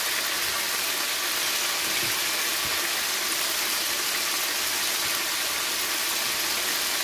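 Chicken pieces frying in hot oil in a skillet, a steady sizzling hiss as they sear.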